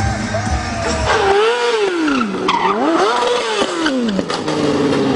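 A motorcycle engine revving up and down several times, its pitch rising and falling in swells of about a second each, with music underneath.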